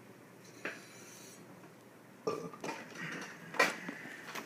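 Small hard objects being handled: a light click, then a short run of knocks and clatter, with one sharper click near the end.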